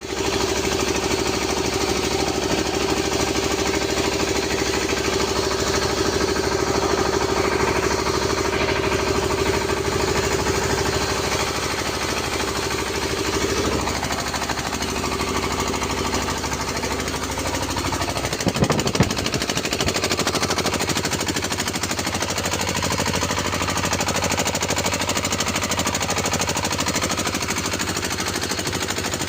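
A rice mill's 12 hp diesel engine running steadily with a rapid knocking beat. A steady hum sits under it for the first half and drops away, and a few louder knocks come about two-thirds of the way through.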